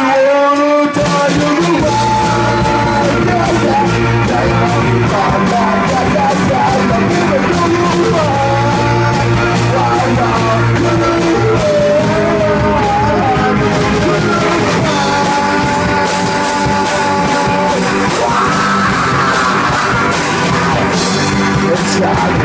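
Garage rock band playing live: distorted electric guitars, bass and drum kit, with a singer yelling the vocal.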